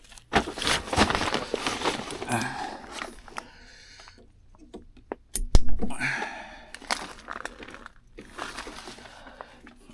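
A person crawling through a crawl space: rustling and crinkling with scattered knocks and scrapes, and one loud knock about five and a half seconds in.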